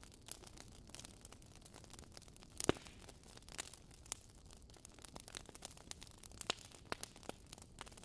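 Wood fire crackling in a fireplace: irregular small pops and snaps over a faint hiss, with one louder pop a little under three seconds in.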